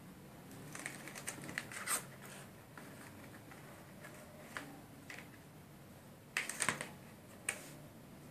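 Irregular light clicks and taps, in two short flurries with a few single clicks between, like small hard objects being handled.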